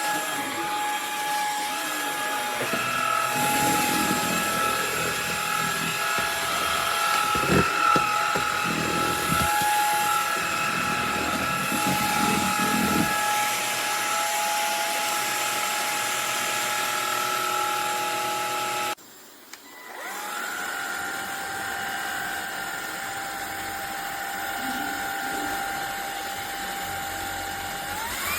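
A MONSGA cordless stick vacuum's brushless motor runs with a steady high whine. About two-thirds of the way through it cuts out for about a second, then spins back up with a rising pitch and runs steady again. Its pitch rises once more right at the end.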